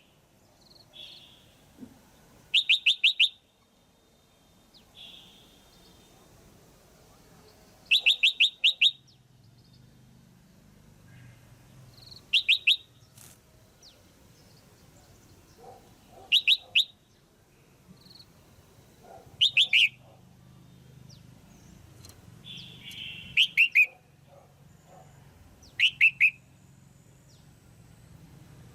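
Female red-whiskered bulbul calling in loud, short bursts of quick repeated chirps, one burst every three to four seconds, about eight in all. It is the female's call used to stir up a male bulbul.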